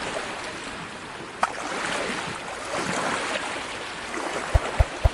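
Sea water lapping and splashing around a boat, with wind noise, a sharp tap about a second and a half in and three low knocks near the end.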